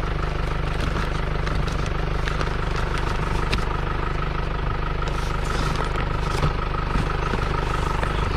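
A vehicle engine running steadily with a constant low hum, with occasional light clicks and knocks on top.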